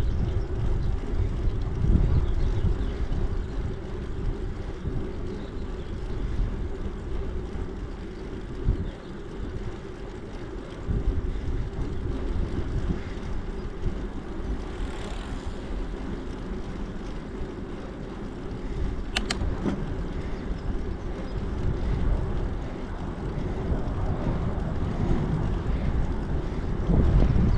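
Wind rumble and road noise on the microphone of a bicycle being ridden, rising and falling, with one sharp click about two-thirds of the way through.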